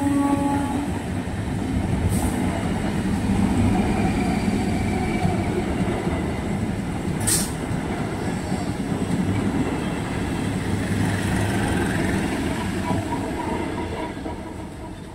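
An electric local train (EMU) running past close by, a steady rumble of wheels on the rails with two sharp clicks. The tail of its horn dies away at the very start, and the noise fades as the last coach goes by near the end.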